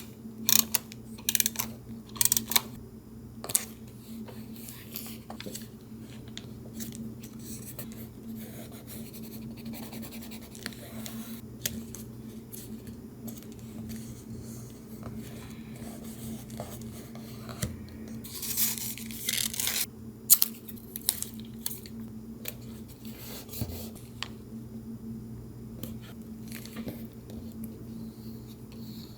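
Scissors snipping through paper in short cuts, with paper rustling and being handled; a longer stretch of rustling or tearing comes about two-thirds of the way in. A steady low hum runs underneath.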